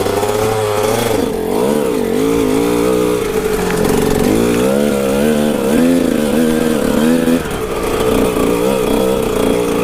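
Kawasaki KX125 two-stroke dirt bike engine revving up and down repeatedly, the pitch rising and falling about once a second through the middle, as the bike is worked free of a muddy spot.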